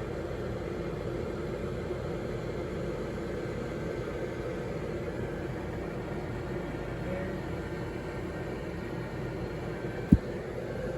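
Steady hum of an inflatable yard decoration's electric blower fan keeping it inflated, with one sharp low thump near the end.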